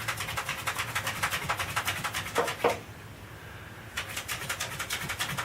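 A small bird beating against a window pane, a rapid run of light taps about eight a second that stops for over a second midway and then starts again.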